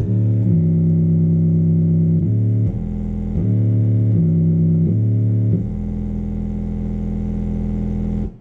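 Portable Bluetooth speaker playing loud, sustained low synth bass notes, changing pitch every second or so. The sound cuts off abruptly near the end.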